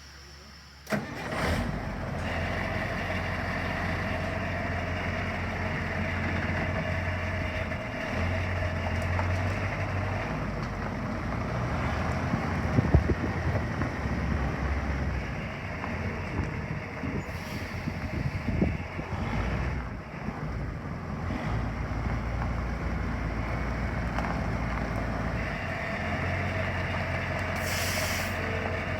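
1980 Ford LN8000 grain truck's engine starting about a second in, then running steadily at idle. A few sharp knocks come midway, and a brief hiss near the end.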